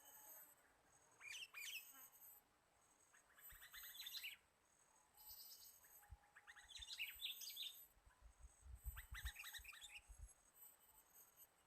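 Faint bird chirping in four short bursts of quick calls, over a very high, thin, steady whine that cuts in and out, like insects.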